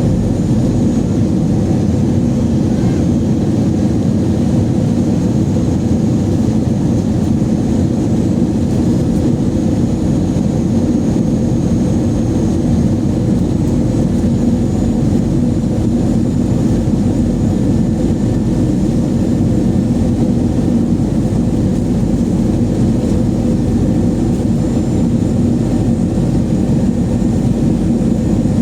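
Airbus A321 cabin noise during the descent for landing: a steady, even rumble of its CFM56 jet engines and rushing air.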